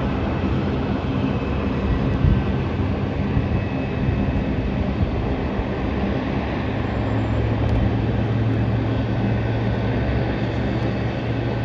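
Jet airliner engines running, heard as a steady rumble; a low steady hum joins it about halfway through.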